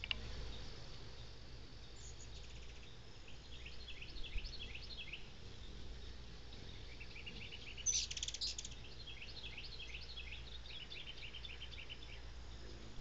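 Birds chirping: runs of short, high, falling chirps, with a louder, denser burst about eight seconds in.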